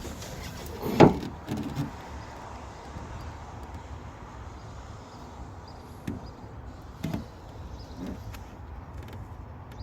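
A sharp knock about a second in, then several fainter knocks and clunks scattered through the rest, over a steady low background rumble.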